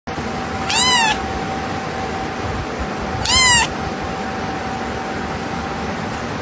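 A cat meowing twice: short, high calls that rise and then fall in pitch, about two and a half seconds apart.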